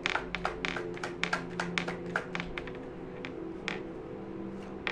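Tarot cards being shuffled and handled: a quick run of sharp clicks and taps in the first two seconds, then a few scattered taps. Background music of held, sustained notes plays underneath.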